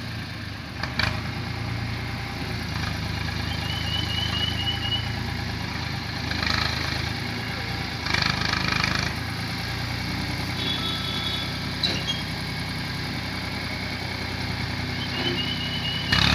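Powertrac Euro tractor's diesel engine running steadily at low speed, with a few short higher noises over it.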